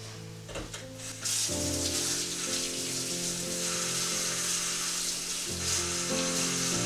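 A steady hiss starts abruptly about a second in and carries on over soft background music.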